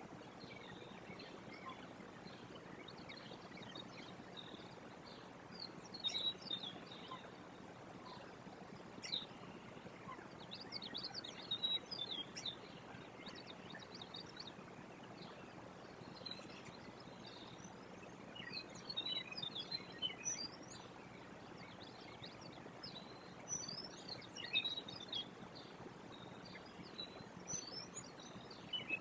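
Small birds chirping and calling in short, scattered bursts, over a steady hiss of outdoor background noise.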